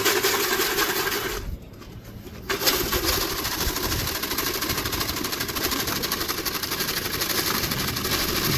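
Racing pigeons at the loft, heard over a steady, rapid rattling noise; the sound drops away sharply for about a second, a second and a half in, then resumes.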